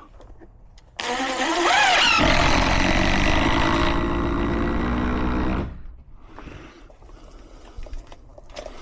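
A motor starts suddenly and its pitch rises quickly as it spins up. It then runs loud and steady for about four seconds before stopping.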